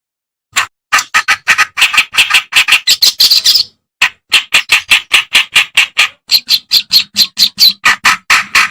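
Kerak basi (reed warbler) song: a fast run of short, harsh chattering notes, about five a second, starting after a moment of silence and breaking off briefly about four seconds in.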